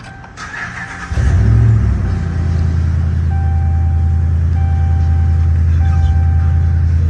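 2009 Dodge 1500 pickup's 5.7-litre Hemi V8 cranked by the starter, catching about a second in with a brief rev, then settling into a steady idle. A dashboard warning chime sounds on and off behind it.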